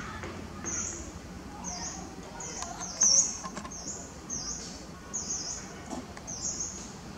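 A small bird chirping over and over, short high chirps about twice a second, with a brief sharp knock about three seconds in.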